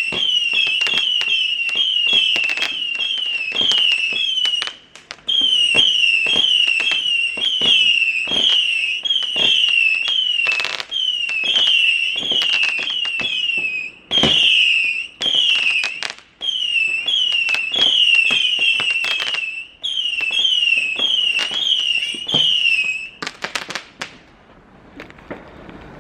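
Firework giving off a rapid string of short, high, shrieking whistles, about two or three a second, with crackling pops mixed in; it dies out near the end with a few last crackles.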